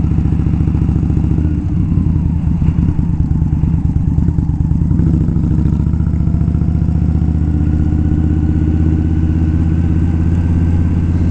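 Indian Scout V-twin motorcycle engine running steadily while riding, with a brief change in its note about five seconds in.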